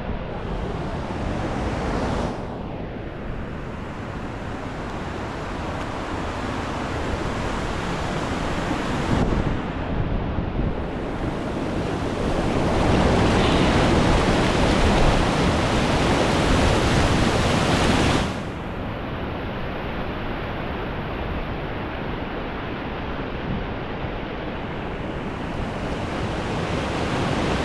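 White water rushing over river rapids and falls, a steady loud rush with wind buffeting the microphone. The level changes abruptly a few times, louder from about 13 to 18 seconds in, then dropping suddenly.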